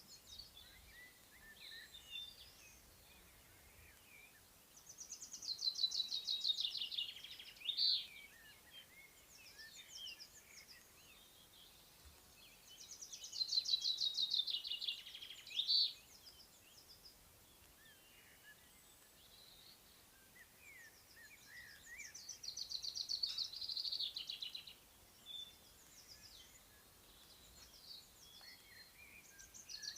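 A songbird singing, repeating a rapid phrase that runs down in pitch and ends in a separate short note, about every eight seconds, with fainter scattered chirps from other birds between.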